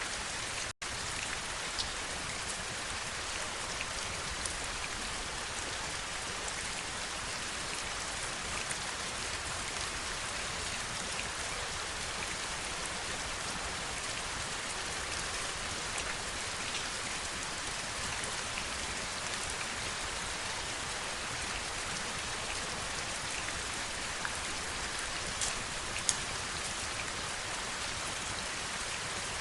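Heavy rain falling steadily as a dense, even hiss, with a few sharper drops ticking through it. The sound cuts out for an instant about a second in.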